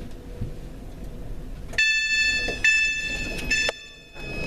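A steady high-pitched electronic two-note tone sounds in pulses of under a second each, starting about two seconds in, over low station rumble. It cuts out briefly near the end and then resumes.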